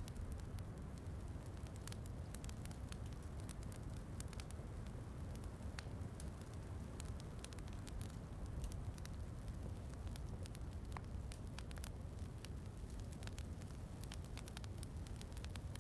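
Wood fire crackling in a fireplace, with many irregular sharp pops over a steady low rumble.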